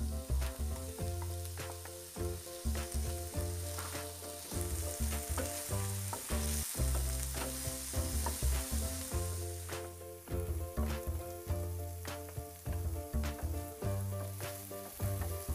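Diced onion and potato sizzling in a nonstick frying pan, with scattered ticks of a wooden spatula stirring them, under background music with a steady bass line.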